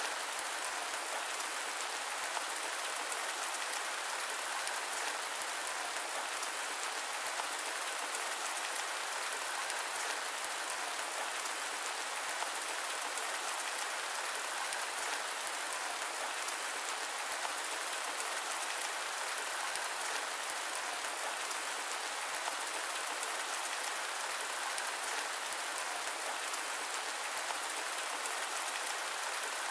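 Steady rain falling, a dense, even hiss of countless drops with no thunder.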